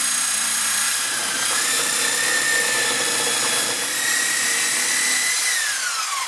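Power saw cutting through a 1.25-inch sump pump discharge pipe, its motor whining steadily and rising slightly in pitch, then winding down with a falling whine near the end.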